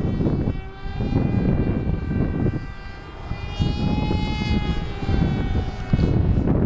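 Radio-controlled model airplanes buzzing overhead: a steady propeller whine whose pitch swells slightly and dips again midway, under gusts of wind rumbling on the microphone.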